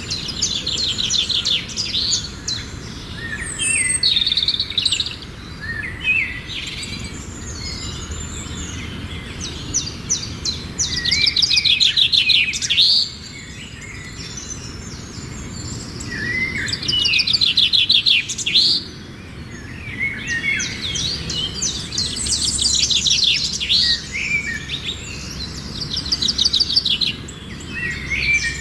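Songbirds singing: phrases of fast, high trills and chirps, repeated every few seconds over a steady low background hiss.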